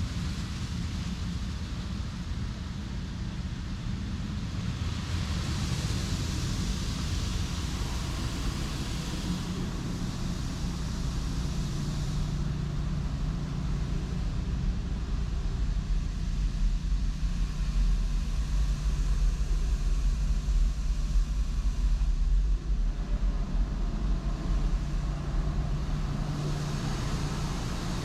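Touchless automatic car wash heard from inside the car: a steady low mechanical hum, with a hiss of spray from about five to twelve seconds in and a louder low rumble a little later.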